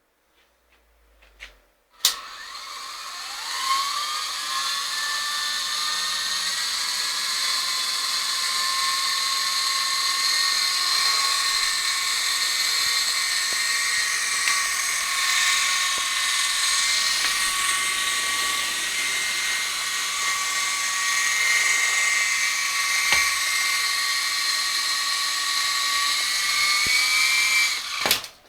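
High-pitched whine of a small electric motor. It starts with a click, rises in pitch over about two seconds as it spins up, runs steady for about 25 seconds, and stops near the end.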